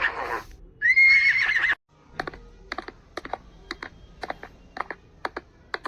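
Horse whinnying: one call tails off at the start and a second, shorter whinny ends a little under two seconds in. Then come sharp hoofbeats, clip-clopping on hard ground in uneven pairs, about two to three knocks a second.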